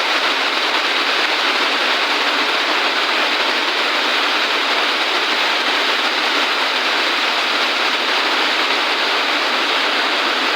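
Heavy rain falling, a loud, dense, steady hiss with no separate drops or breaks.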